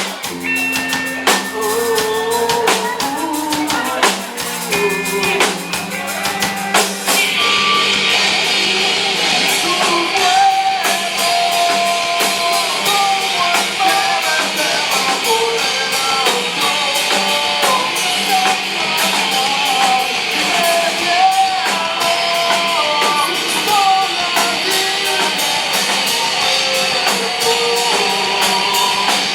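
Live rock band playing: electric guitar, bass and drum kit, with a singing or lead melody line. About seven seconds in the full band comes in louder with heavy drums and cymbals.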